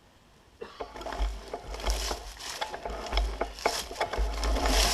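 Irregular rustling and crackling with many small clicks and knocks, and low rumbling thumps of wind or handling on the microphone, starting about half a second in; no engine running.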